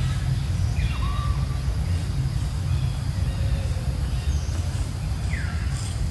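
Steady low outdoor rumble, with a few short bird calls sliding down in pitch: one about a second in and two near the end.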